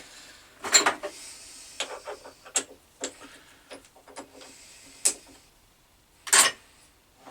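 Irregular sharp metallic clicks and light scraping of small hand tools being handled against metal, with one louder clack about six seconds in.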